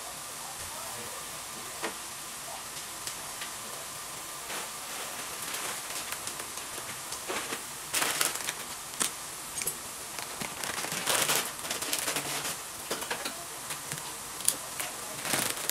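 Meat and mushrooms frying in a pan over a gas burner: a steady sizzle with scattered crackles, and several spells of louder spitting and popping, about halfway through and near the end.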